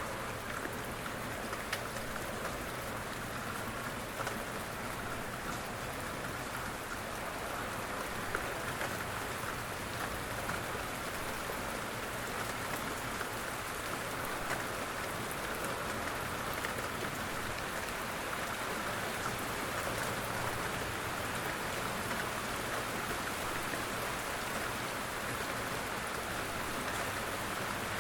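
Steady rain falling, a continuous even hiss with many small drop ticks.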